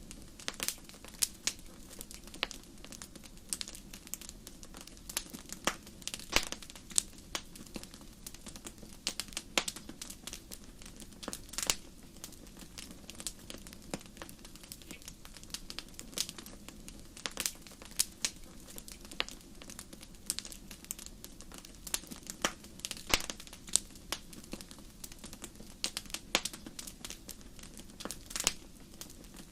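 Wood fire crackling in a fireplace: irregular sharp pops and snaps, several a second, over a soft steady hiss of the flames.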